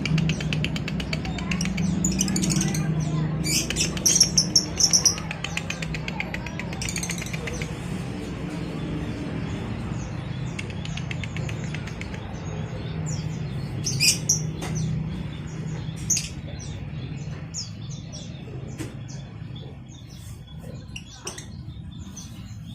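Several caged songbirds chirping, with bursts of fast buzzy trills, most intense about four seconds in and thinning out towards the end, over a steady low background hum.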